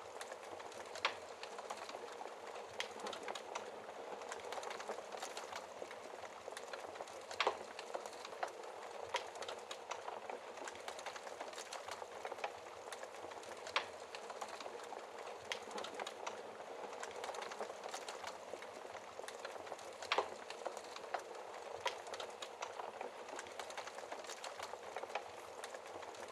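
Logs burning in a fireplace: a steady soft hiss of flames with frequent small crackles and a sharper wood pop every few seconds.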